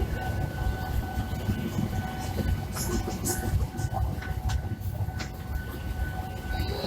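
Train running: a steady low rumble with a constant high-pitched tone above it and scattered clicks and knocks.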